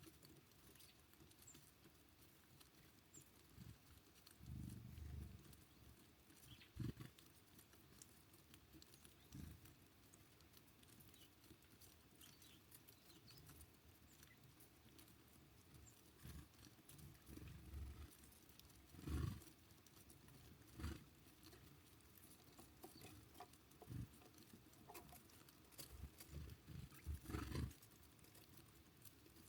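Small birds at a feeder: scattered soft taps and thumps of pecking and hopping, irregular, with a cluster of stronger knocks about two-thirds of the way through and another near the end.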